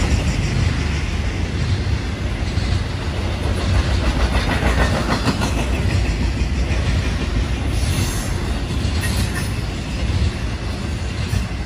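Union Pacific intermodal freight train's trailer and container flatcars rolling past at speed: a steady heavy rumble with steel wheels clattering on the rails. The end of the train passes near the end and the sound eases slightly.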